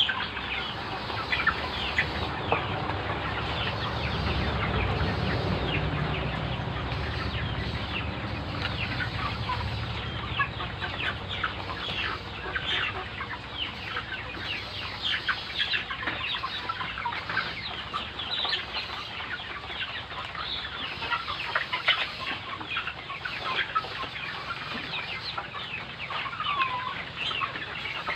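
A flock of native and heritage-breed chickens clucking and calling, with many short calls overlapping throughout. A low rumble runs under them for several seconds early on.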